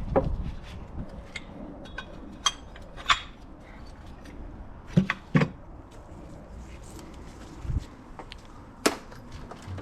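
Metal engine parts clinking and knocking as they are handled during the teardown: scattered sharp clinks, a pair about five seconds in and another near the end the loudest.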